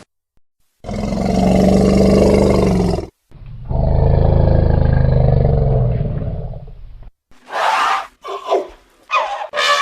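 Elephants roaring: two long, deep roars lasting a few seconds each, then a run of short, higher calls near the end.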